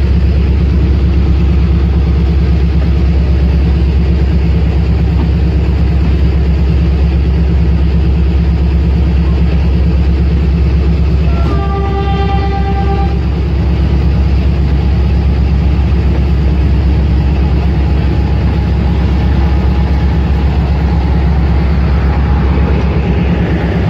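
Pakistan Railways passenger train moving slowly past along the platform, with a loud, steady diesel engine hum. About halfway through, a horn sounds once for about a second and a half.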